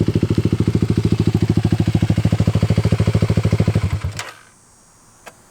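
Dirt bike engine running steadily at idle close by, then shutting off about four seconds in; a few sharp clicks follow near the end.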